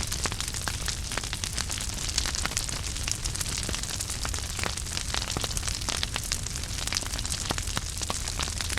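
Wood fire crackling in a fireplace: frequent sharp pops and snaps over a steady low rumble of flame.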